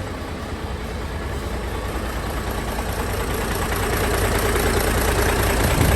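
Isuzu 6UZ1 six-cylinder diesel truck engine idling steadily, growing louder over the few seconds. Its even idle goes with an engine the inspector finds dry of oil leaks and passes as okay.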